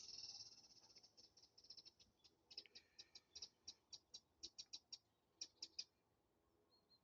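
A small songbird singing, faint: a high, rapid trill, then a string of short, sharp high notes at about three or four a second that stops about six seconds in.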